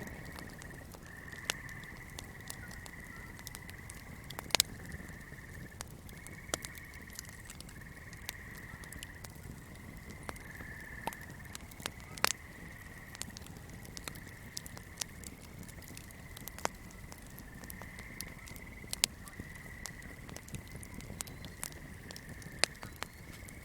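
Swamp ambience: a steady high-pitched chorus of calling swamp creatures that swells and fades in pulses about a second long, over a low rumble. Sharp fire crackles snap through it every few seconds, a few of them loud.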